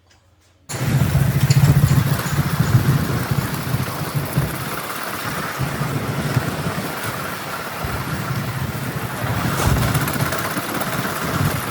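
A steady rumble of a running motor vehicle, starting abruptly just under a second in after near silence.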